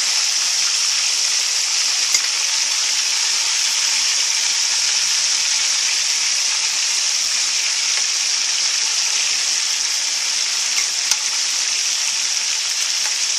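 Flour-dredged pork chops frying in hot oil, a steady loud sizzle, with a couple of faint clicks.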